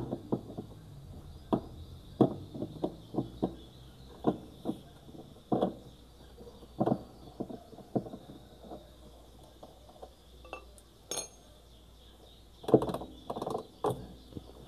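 Scattered metallic clinks and knocks of a wrench loosening the nut on a washing machine's drive pulley, with a quick cluster of knocks near the end.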